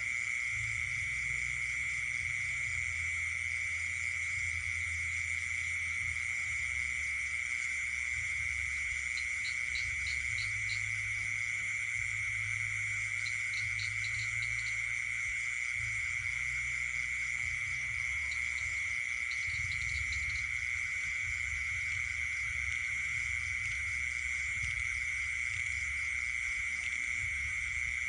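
Night chorus of insects and frogs: one steady, unbroken high trill is the loudest thing, with fainter high trilling above it. Three times, a short run of quick clicks sounds over it.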